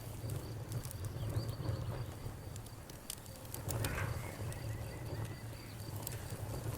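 Campfire crackling, with scattered sharp pops over a low, steady rumble of burning, while night insects keep up a steady high chirping.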